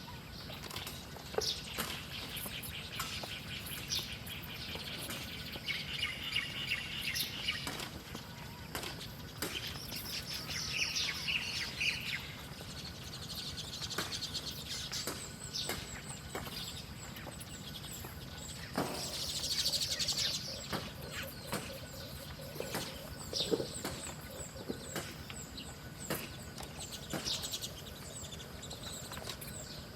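Small wild birds chirping and twittering again and again, with scattered short clicks and rustles over a faint steady outdoor background.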